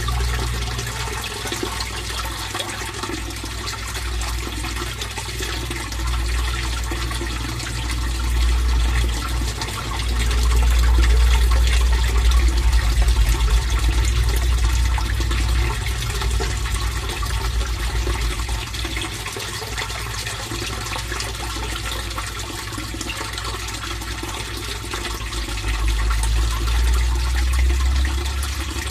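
Fish-pond water flowing and splashing steadily, with a deep low rumble underneath that swells about a third of the way in and again near the end.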